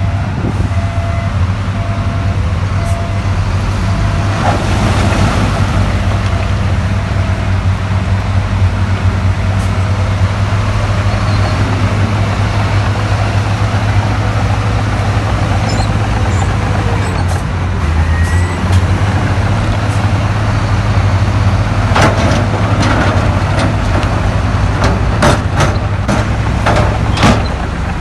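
Heavy diesel earthmoving machinery running steadily under a low engine note, with a run of sharp knocks near the end.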